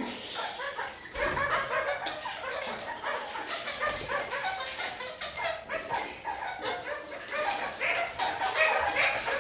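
Red-crowned parakeets (kakariki) chattering with a continuous stream of quick, short calls, with a few sharp clicks among them.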